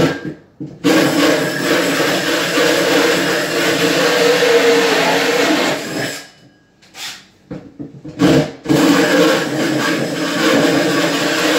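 Power drill running under load, boring into cabinet wood: one long run, a pause broken by two short blips, then a second long run.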